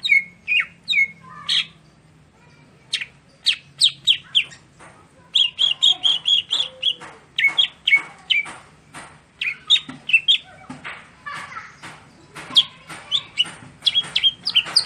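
Cucak hijau (green leafbird) singing: a fast, varied run of short, sharp chirps and whistled notes with brief pauses, including a quick string of repeated notes about midway.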